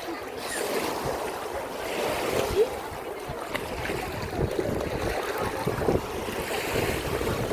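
Seaside ambience: waves washing onto the shore, with wind gusting on the microphone.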